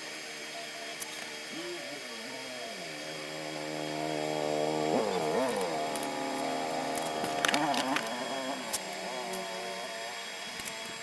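Homemade coconut grater driven by a washing machine motor, running with a steady whine whose pitch dips and recovers several times. It grows louder in the middle, with a few sharp clicks about seven to eight seconds in.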